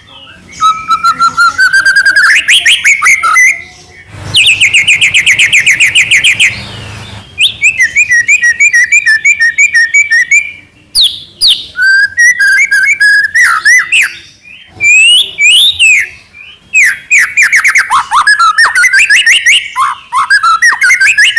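White-rumped shama (murai batu) singing a loud, varied song: rapid runs of repeated whistled notes and rising and falling trills in phrases with short pauses between.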